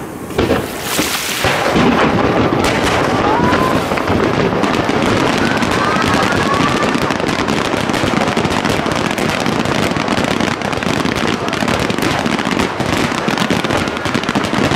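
Fireworks finale: a dense, continuous barrage of aerial shells bursting and crackling, growing to a steady loud rush about two seconds in.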